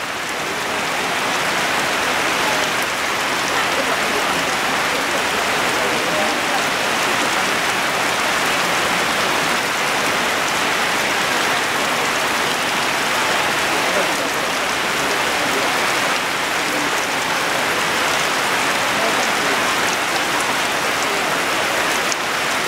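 Heavy tropical rain falling steadily on a muddy dirt yard and running off the edge of a thatched palm-leaf roof in streams, an even, unbroken hiss.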